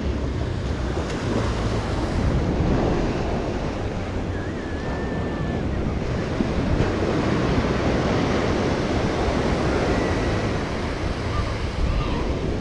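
Ocean surf breaking and washing up the beach in a steady, swelling rush, with wind buffeting the microphone.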